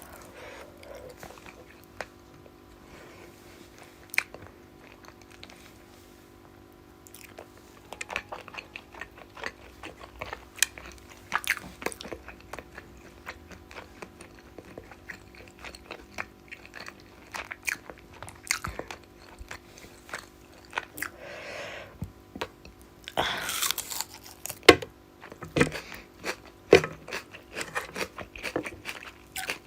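Close-up mouth sounds of a person eating fish curry and rice: irregular chewing, wet smacks and crunchy bites, busier after the first few seconds.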